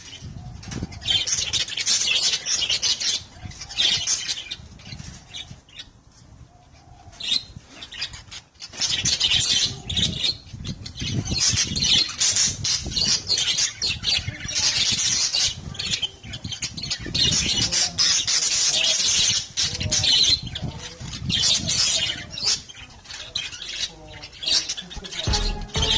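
Caged budgerigars and a parrot squawking and chattering in repeated harsh bursts, with some wing flapping and low thuds of movement in the cage, as the birds spar and the male budgie defends.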